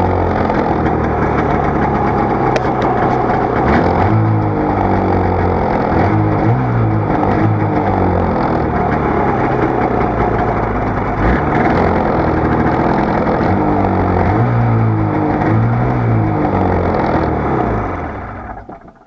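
A Polaris 550 two-stroke snowmobile engine running at a fast idle, its pitch wavering up and down a little, then falling away and stopping near the end.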